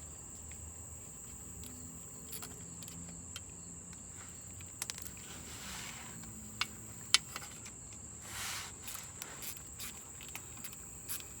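Crickets trilling steadily in one continuous high tone, with a few scattered light clicks and taps and a brief rustle about eight seconds in.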